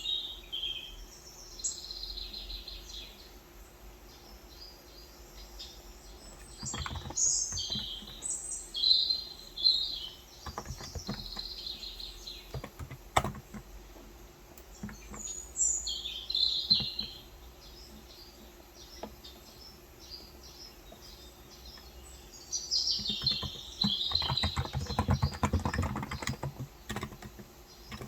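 Birds chirping throughout, with two runs of typing on a Cox Endeavor electrocapacitive (topre-style) 35 g tenkeyless keyboard, soft rapid keystrokes, one run a quarter of the way in and a denser one near the end.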